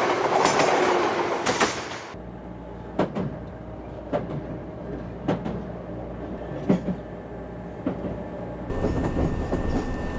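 Passenger train running, heard from inside a carriage: a loud rumble for about two seconds, then it drops suddenly to a quieter low hum with scattered knocks and clicks. Near the end the background changes again and a faint steady tone appears.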